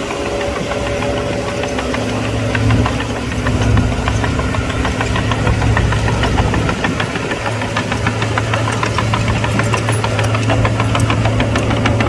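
Diesel engine of heavy earthmoving equipment running steadily under a low hum, with rapid metallic clattering that grows denser from about halfway through.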